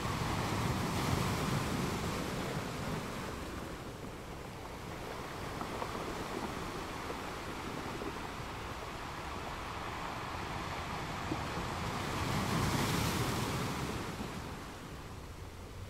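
Gentle ocean waves washing in, a steady rushing that swells twice: once just after the start and more strongly about twelve seconds in, then eases near the end.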